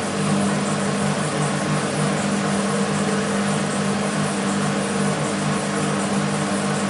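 BEKO WMB 51441 front-loading washing machine running mid-cycle, its drum motor turning at a constant speed with a steady hum over a wash of noise.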